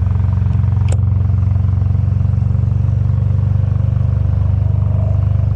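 Harley-Davidson Fat Boy 114's Milwaukee-Eight 114 V-twin engine running steadily, a deep even pulse with no revving. A brief click about a second in.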